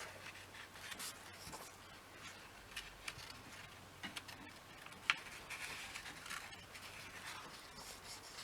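Faint rustling and soft ticks of comic-book paper being handled and pages turned, with one sharper tick about five seconds in.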